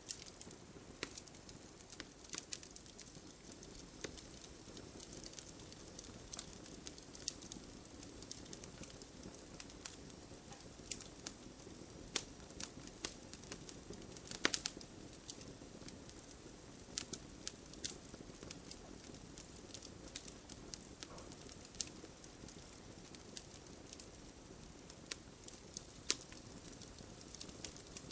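Wood fire crackling in a fireplace: irregular sharp pops and snaps over a soft steady hiss, one snap louder than the rest near the middle.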